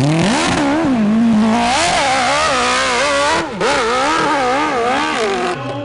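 Motocross bike engine revving hard under load, its pitch rising and falling again and again as the throttle is worked, with a brief cut a little past halfway.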